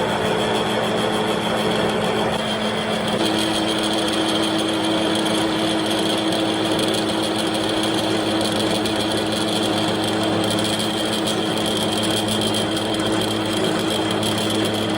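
A machine running steadily, with a steady whine that joins about three seconds in and holds.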